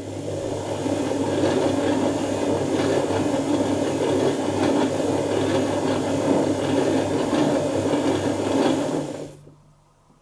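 Dyson Contrarotator CR01 washing machine tumbling its wash load: the motor turns the drums with a low hum under a steady churning of water and clothes, then stops about nine seconds in, the pause between turns of a wash phase.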